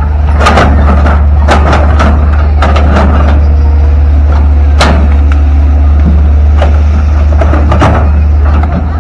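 Long-arm hydraulic excavator's diesel engine running with a loud, steady low drone, with irregular metallic clanks and knocks from the machine as it works and moves.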